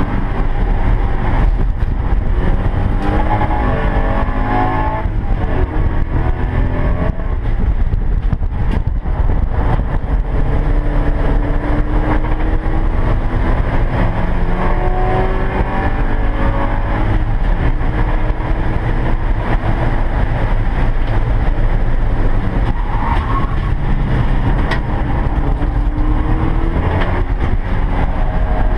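Porsche 944 race car's four-cylinder engine heard from inside the cockpit under racing load. Its pitch rises in several long pulls and falls back between them, over steady road and wind noise.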